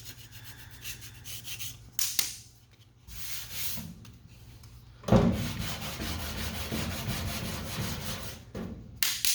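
Hand block-sanding of lacquer primer over a body-filler repair: a few short scrubbing strokes, then a longer stretch of steady back-and-forth sanding from about five seconds in. The primer is not quite dry and is gumming up the sandpaper.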